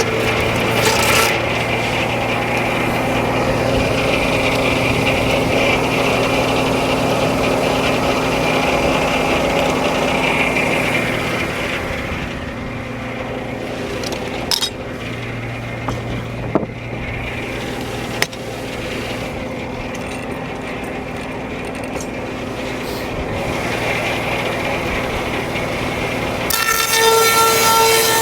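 Frick No. 1 circular sawmill running and sawing a log: a dense cutting noise for about the first twelve seconds, then a lighter run with a few sharp knocks, and near the end a high steady whine sets in.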